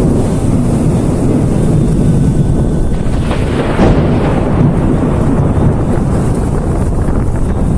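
Thunderstorm: a loud, continuous low rumble of thunder over heavy rain, with a harsher burst about three and a half seconds in.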